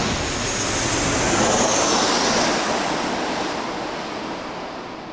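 Jet airliner's engine noise dying away after it passes, a broad rushing sound that fades steadily, with a faint high whine falling in pitch partway through.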